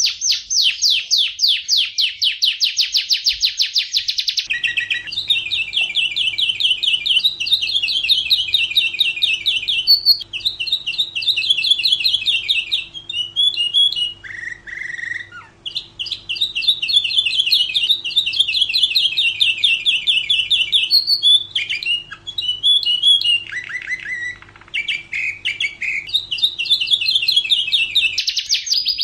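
Domestic canary singing: long, rapid rolling trills, one phrase after another, with short chirps and brief pauses between. About four and a half seconds in, the recording changes and a faint steady hum comes in underneath the song.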